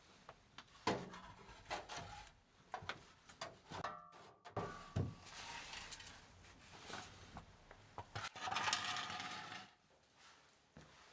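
Metal tools and parts being handled: scattered clinks and knocks, a short ringing ping about four seconds in, and two brief hissing or scraping stretches, the second louder, about eight to nine and a half seconds in.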